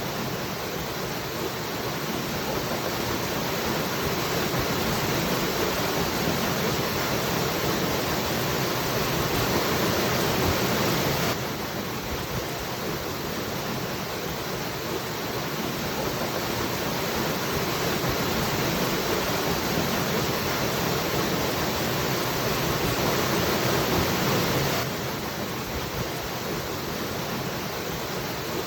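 Waterfall rushing steadily, with water noise spread across all pitches. It swells slowly and drops abruptly about 11 seconds in and again near the end, like a recording looping.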